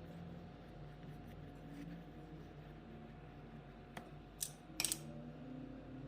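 Faint steady low hum with a small click about four seconds in, followed by two short, sharp clinks of small hard objects being handled.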